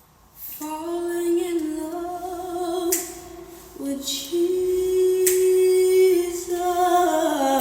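A voice singing a slow worship melody in long held notes, starting about half a second in.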